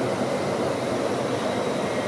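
Hitachi Class 803 electric multiple unit running past at low speed: a steady rolling rumble of wheels on rail, with a faint steady high whine over it.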